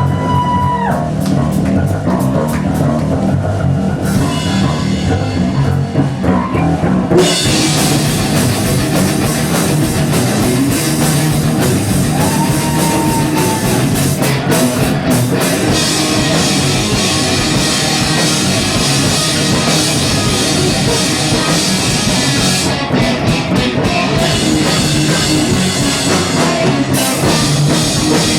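Live rock band playing loud: drum kit, distorted guitar and bass, with a voice holding a long sung note partway through. The full band comes in about seven seconds in.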